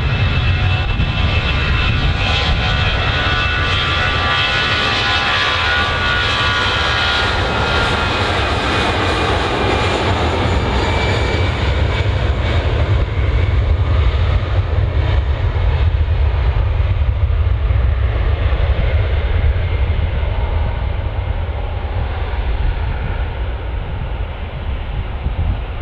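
Jet airliner engines going past: a whine of fan tones over a heavy rumble for the first dozen seconds. The whine and hiss then fade while the low rumble carries on as the aircraft moves away.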